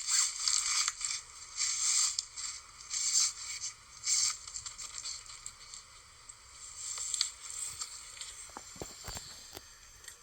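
Irregular rustling and crunching in short bursts, busiest in the first half and thinning to a few scattered clicks near the end.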